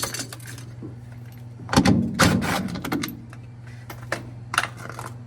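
A few separate knocks and clanks of hand tools and metal parts being handled during a washing machine teardown, over a faint steady low hum.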